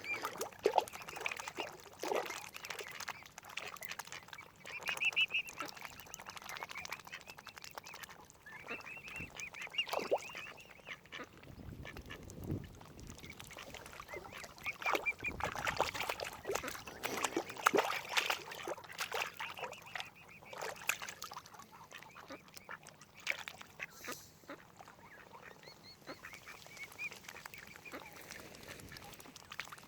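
Mallard ducks quacking in repeated short calls, coming in bunches with gaps between.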